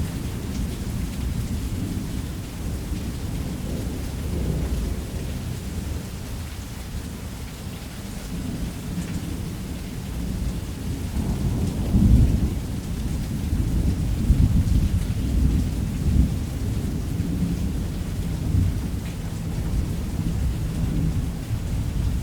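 Thunderstorm: long rolling thunder rumbling low and continuously, swelling to its loudest about halfway through, over a steady hiss of heavy rain.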